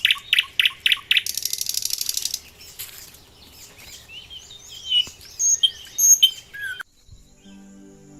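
Birds calling: a quick run of about five sharp descending notes, then a fast, dry, high rattling trill for about a second, then scattered whistles and chirps. The bird sounds stop abruptly near the end, and faint low flute-like music begins.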